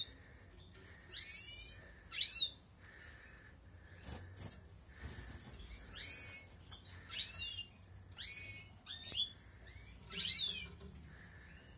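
European goldfinches (Balkan goldfinch) calling: a series of short, quick chirps with sweeping pitch, repeated about once a second with small gaps between them.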